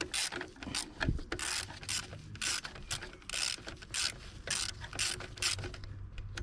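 Ratchet wrench clicking in short repeated strokes, about two to three a second, as a bracket bolt is tightened down.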